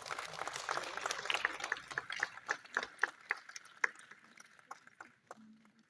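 Audience applauding: dense clapping that thins out after about three seconds to a few scattered claps and then dies away.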